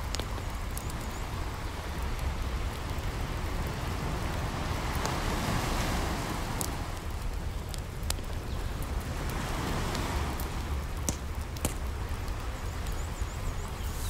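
Wood campfire crackling with scattered sharp pops, over the wash of ocean waves that swells up twice, about five and ten seconds in, and a steady low rumble.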